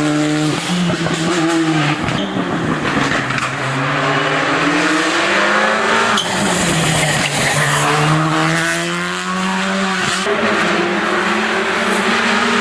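Rally car engine revving hard on a special stage, its pitch climbing and then dropping sharply several times as it changes gear.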